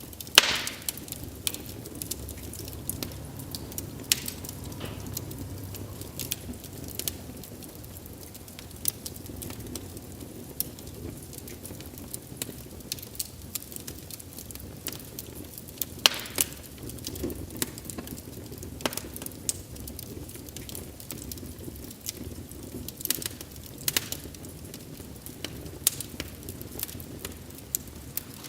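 Wood fire crackling: scattered sharp pops and snaps over a low steady rush of burning. One loud pop comes right at the start and another about 16 seconds in.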